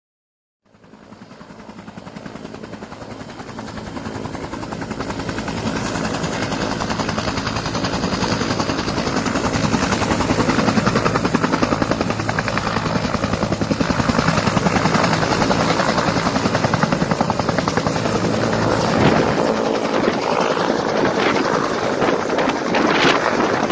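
Bell UH-1H Huey II helicopter running, its turbine and two-bladed main rotor giving a steady fast beat. The sound grows louder over the first several seconds, then holds steady.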